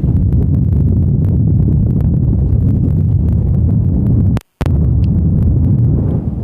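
Strong wind buffeting the microphone: a loud, steady low rumble, cut by a moment of dead silence about four and a half seconds in.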